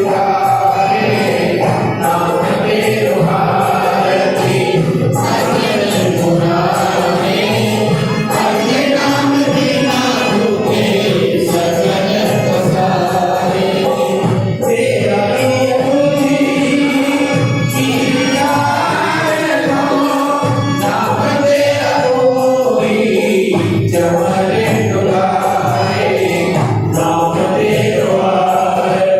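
Devotional group singing of a hymn (kirtan) over music, continuous and steady in level.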